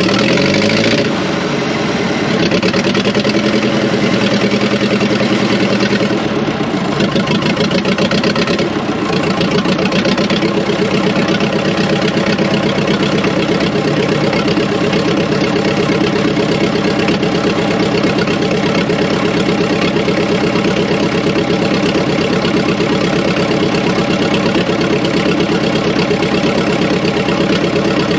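Fordson Power Major tractor engine firing up on a jump start. It revs briefly about a second in, then settles into a steady run.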